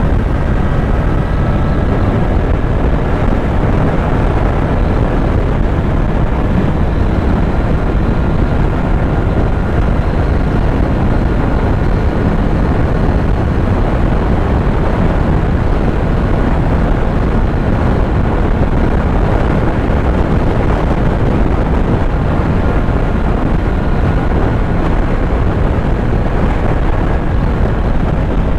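Kawasaki Z900 inline-four motorcycle engine running steadily on the move, its pitch drifting only slowly, under heavy wind rush on the microphone.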